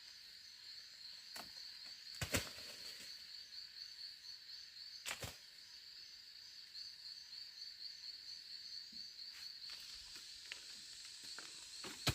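Insects chirring steadily in a fast, even pulse. A few sharp knocks break in, the loudest about two seconds in, another about five seconds in, and lighter ones near the end.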